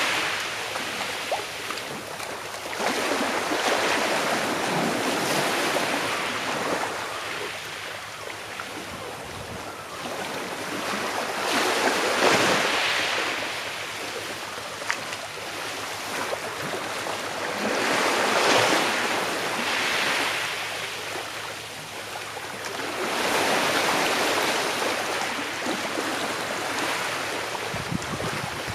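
Small sea waves washing onto a shore in slow surges, each swell of hiss rising and falling back every five or six seconds.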